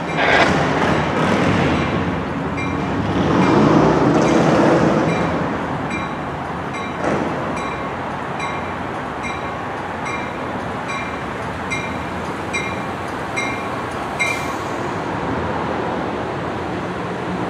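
Pacific Surfliner passenger train rumbling in on the rails toward the platform, cab car leading. A warning bell dings steadily, a little more than once a second, and stops about fourteen seconds in.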